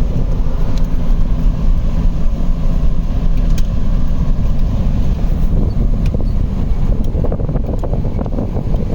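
Open-top Jeep driving: a steady rumble of engine and running gear, with some wind.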